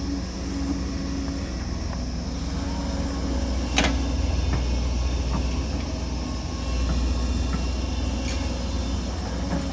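Excavator's diesel engine running steadily with a deep rumble, with one sharp knock about four seconds in and a few lighter ticks.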